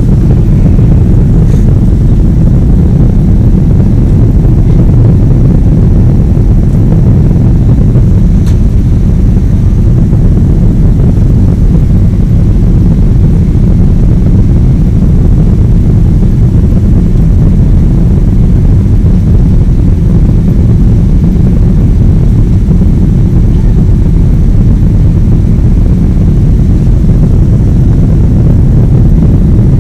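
Boeing 777 jet engines and airflow making a steady, loud, low roar that holds unchanged throughout.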